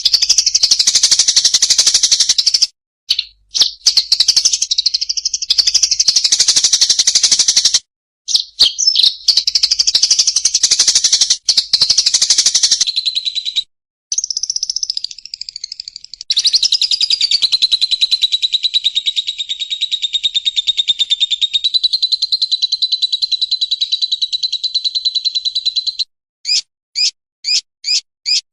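A small songbird sings long, fast, chattering high-pitched phrases that break off abruptly several times. It then holds one long, even trill for about ten seconds and ends with five short, sharp notes.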